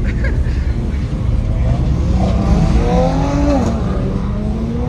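Car engines running with a steady low rumble, mixed with background voices.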